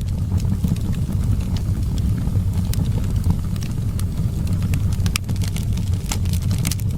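Wood fire crackling, sharp irregular pops and snaps scattered over a steady low rumble of wind, the pops coming thicker about five seconds in.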